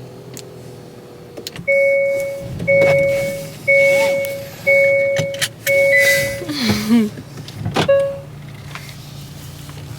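A car's electronic warning chime: a steady, mid-pitched ding that fades, sounding five times about once a second, then once more briefly near the end, over a low steady hum.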